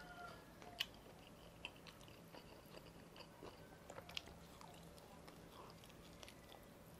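Faint close-up biting and chewing on a fried chicken leg, with a few short sharp clicks: one about a second in and two about four seconds in.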